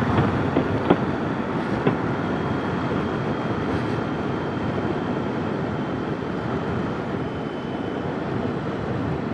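Steady rush of wind and road noise on a motorcycle helmet's intercom microphone while riding. There are a few clicks in the first two seconds and a faint high whine through the middle.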